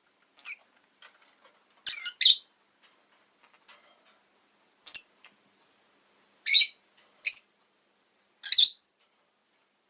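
Rosy-faced lovebird giving short, shrill chirps and squawks at irregular intervals, a loud pair about two seconds in and three loud calls near the end, with fainter calls between.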